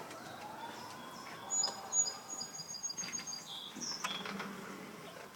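A small bird chirping: a quick run of short, high chirps that come faster and faster, starting about a second and a half in.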